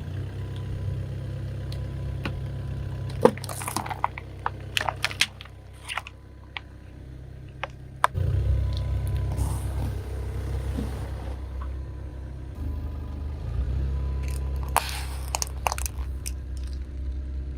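A car tyre rolling slowly over crunchy objects and crushing them: scattered sharp cracks and clusters of crunching over the steady low rumble of the car, with the rumble getting louder about eight seconds in.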